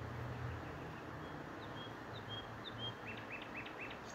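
A small bird chirping: a few short high chirps, then four quick notes in a row near the end, over steady outdoor background hiss.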